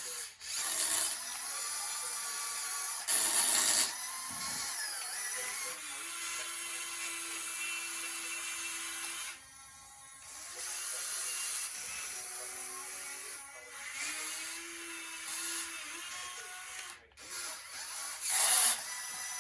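Small electric motors and hydraulic pumps of radio-controlled model excavators and other machines, whining steadily, their pitch shifting as they take load. There are louder surges a few seconds in and near the end, and a brief drop about halfway.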